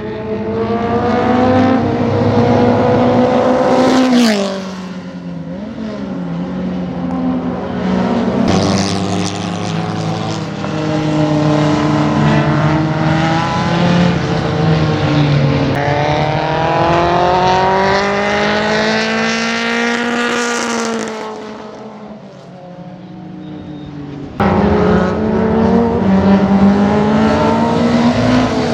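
Turnham Mako C clubman racer's dry-sumped, modified Ford Kent four-cylinder engine at speed, the revs climbing and falling repeatedly, with a sharp drop in pitch about four seconds in. The sound changes abruptly at about eight and a half and twenty-four seconds in.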